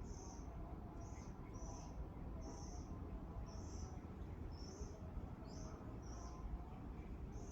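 A small bird's short, high chirps, about nine of them, a little under a second apart and slightly irregular, over a steady low background rumble with faint distant bird calls.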